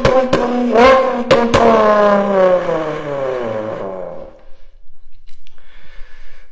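A person imitating a JDM car flyby with their mouth. A quick rising rev is followed by a long engine drone that falls steadily in pitch over about two and a half seconds, like a car passing. A few sharp pops come in the first second and a half, and the sound dies away about four seconds in.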